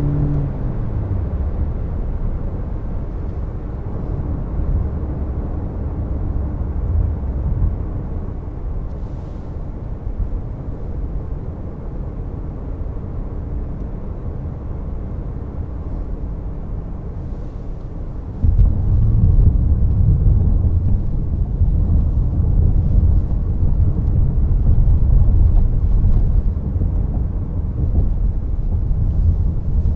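Low road and tyre rumble heard inside the cabin of a Toyota C-HR 1.8 Hybrid while driving. A pitched engine hum falls away in the first second, and about two-thirds of the way through the rumble suddenly gets louder and stays louder.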